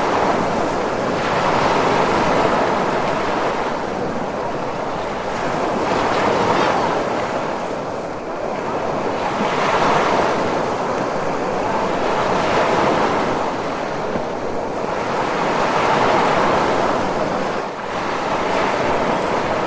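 Ocean waves: a continuous rush of surf that swells and eases every three to four seconds as waves break and wash back.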